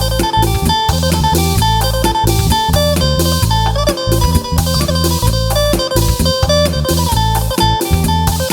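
Isan phin, a plucked Thai lute, picking a fast melody over a steady drum-kit beat and heavy, booming bass, in the style of northeast Thai procession-truck music.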